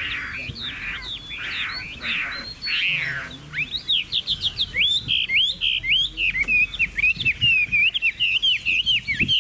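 Chinese hwamei singing. It opens with harsh, rasping notes at about two a second, then about three and a half seconds in breaks into a fast run of clear whistled notes that slide up and down.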